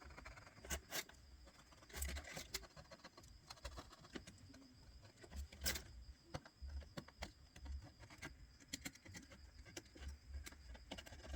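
Small hand tool scraping and clicking on a phone while old screen adhesive is picked and cleaned off: light, irregular clicks and short scratches.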